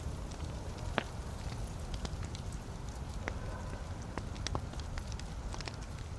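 Wood fire burning in a fireplace: a steady low rumble of flames with irregular sharp crackles and pops of burning logs, one louder pop about a second in.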